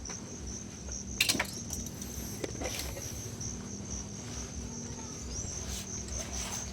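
Insects singing: a steady, high-pitched trill over a low, steady hum, with a brief clatter about a second in.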